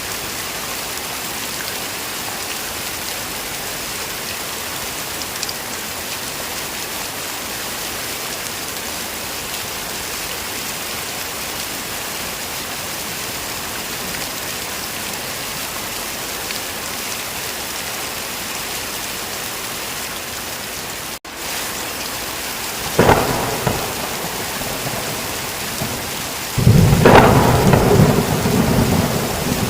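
Heavy rain falling in a steady hiss, then thunder: a sharp clap about three-quarters of the way through, followed near the end by a louder, longer rolling rumble.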